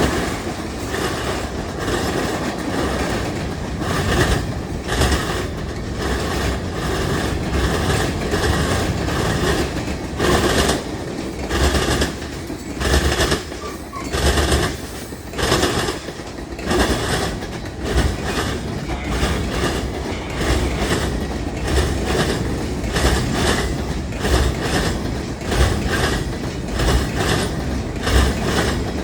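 Freight train cars rolling past, their steel wheels clicking and clacking over the rail in an uneven rhythm of roughly one beat a second, over a steady low rumble.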